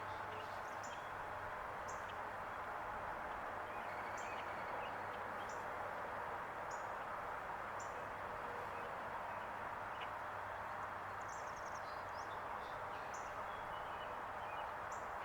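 Small birds chirping, short high calls about once a second, over a steady low hum and noise.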